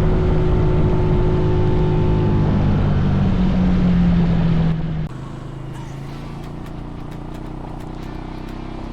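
Mini bike's small engine running steadily. About five seconds in the sound drops sharply to a lower, quieter engine note, like idling.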